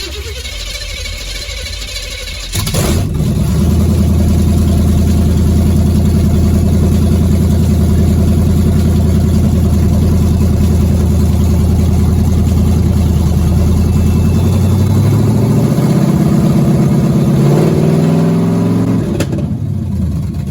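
1978 Chevy Nova engine catching about two and a half seconds in, then running steadily on a rigged-up fuel supply. Near the end it revs up, then stops.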